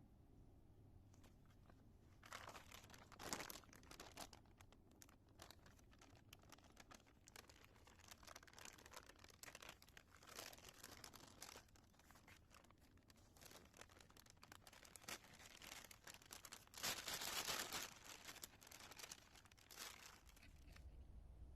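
Faint rustling and crinkling made of many small crackles, with a couple of louder bursts, the longest near the end.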